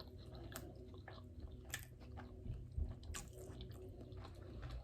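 Close-miked chewing of a mouthful of spicy crunch California roll sushi: faint wet mouth smacks and small clicks, with a few sharper smacks about half a second, a second and three quarters, and three seconds in.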